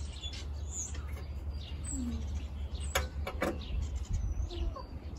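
Birds chirping intermittently in the background over a steady low rumble, with two sharp clicks about three seconds in.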